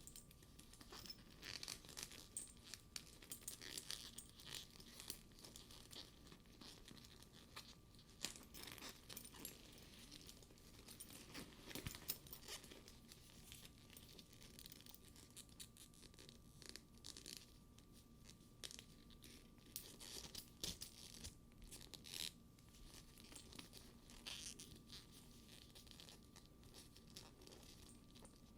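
Fingers handling a studded faux-leather purse: its sticky leather surface and straps crackle and peel softly under the fingers in a continuous run of small crackles, with a few sharper ticks.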